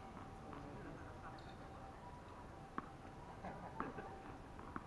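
Tennis balls being struck and bouncing on a court, a few sharp pops roughly a second apart over faint distant voices.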